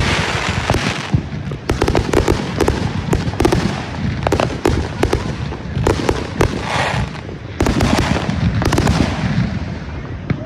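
Consumer fireworks going off in quick succession: rapid, overlapping pops and bangs in several clusters, with crackling hiss between them.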